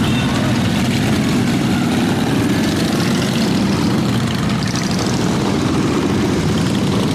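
Many motorcycle engines running together as a parade rolls past: a steady, dense low engine noise with no single machine standing out.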